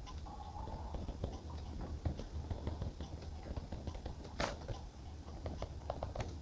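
Light, small scratching and tapping of journaling at a desk, from pen and paper being handled, with one sharper click about four and a half seconds in.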